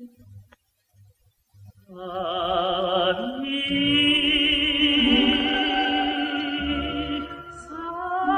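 A vocal ensemble singing long held notes with strong vibrato, coming in about two seconds in after a brief pause.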